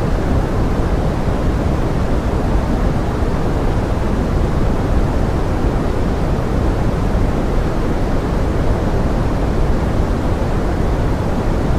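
Steady pink-noise forest rain: an even, rushing hiss weighted toward the low end, unchanging throughout.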